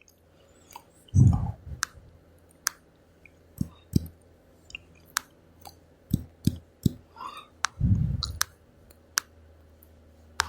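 A dozen or so scattered sharp clicks, with two low thumps about a second in and near the eighth second, over a steady low hum. These are the sounds of looking up a passage in Luke.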